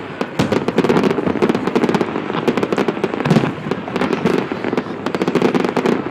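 Fireworks and firecrackers going off in a dense, continuous run of rapid bangs and crackles that overlap one another.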